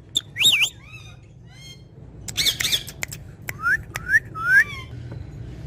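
A parrot squawking in a series of short, pitched calls, with three rising calls in quick succession near the middle, over a steady low hum.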